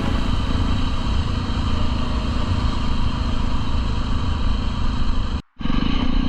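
Jawa 42's single-cylinder engine running steadily while riding, a low exhaust rumble, with the sound cutting out for a moment near the end.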